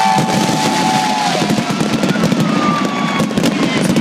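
Fireworks crackling and popping rapidly over a crowd, with a long held tone that ends about a second in.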